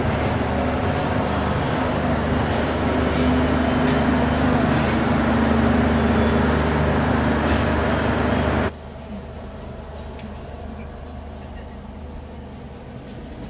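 KTM ERT sleeper train's coaches rolling along the platform, a steady rumble with a low hum. About nine seconds in it cuts off abruptly to the much quieter, steady background noise inside a sleeper coach.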